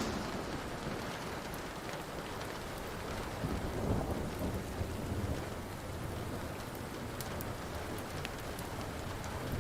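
Steady rain with a low rolling rumble of thunder that swells briefly a few seconds in, over scattered sharp pops of a crackling wood fire.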